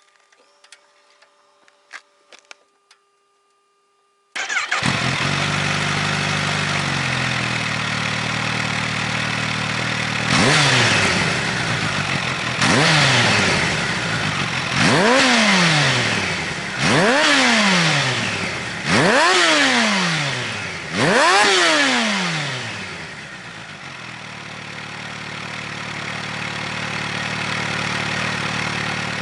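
Kawasaki Ninja H2 SX's supercharged inline-four, breathing through a Nojima DLC Lock-On slip-on muffler, starting about four seconds in after a few faint clicks and tones, then idling. Six quick throttle blips follow about two seconds apart, each rising and falling in pitch, and then it settles back to idle.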